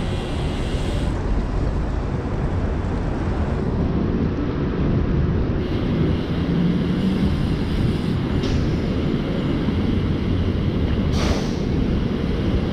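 Steady low rumble of wind and road noise picked up by a handlebar-mounted camera on a moving bicycle in city traffic, with a short hiss about eleven seconds in.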